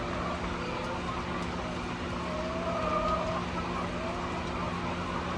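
Hens calling over a steady low hum, one drawn-out wavering call near the middle.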